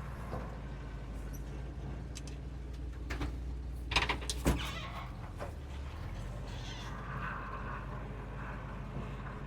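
Truck engine idling steadily, with two sharp clunks about four seconds in.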